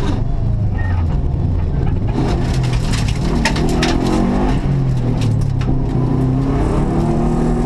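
Subaru Impreza rally car's flat-four engine heard from inside the cabin at full effort, its note rising and falling as it accelerates and lifts. A quick cluster of sharp clicks comes about halfway through.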